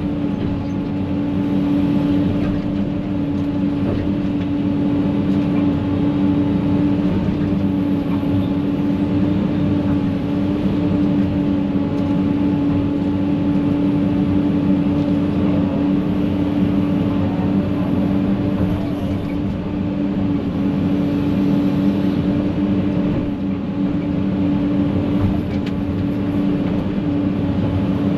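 Excavator's diesel engine running steadily at an even pitch as it works a brush pile.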